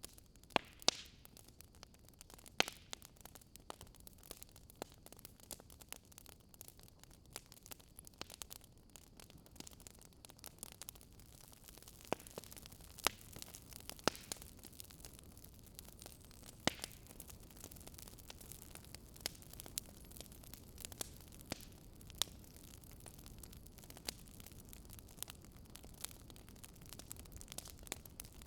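Wood fire in a fireplace crackling: irregular sharp pops and snaps over a low steady hiss, the loudest pops about a second in and again around the middle.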